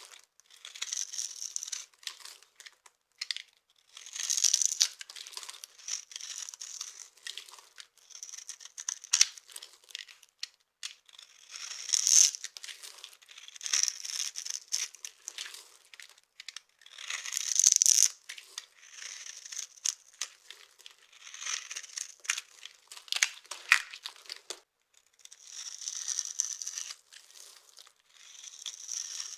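Dry soap being cut with a knife: a series of crisp, crunchy scraping strokes, one every second or two, with short pauses between them.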